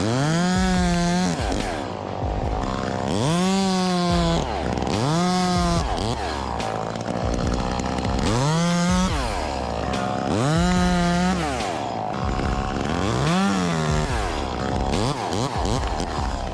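Two-stroke chainsaw revved to full throttle and let back down to idle about six times, each burst lasting roughly a second.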